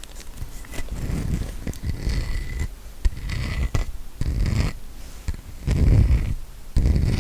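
Trigger sounds made close to the microphone: uneven low rumbling rubs or scratches, about six strokes, with a few small clicks among them.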